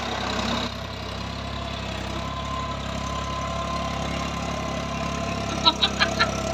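Tractor engine idling steadily. Four sharp clicks come in quick succession near the end.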